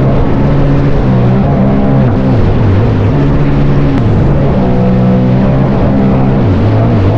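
Sea-Doo Spark jet ski's three-cylinder Rotax engine running hard, its pitch repeatedly dropping and climbing again as the throttle is worked through slides, over a steady rush of water and wind.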